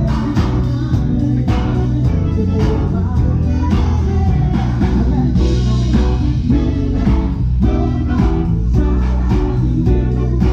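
Live band playing a steady beat, with electric guitar, bass and drums, in an instrumental stretch between sung lines.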